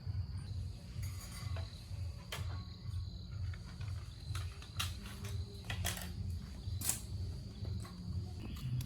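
A machine running with a low, throbbing rumble and a faint steady high whine, with scattered sharp clicks and knocks.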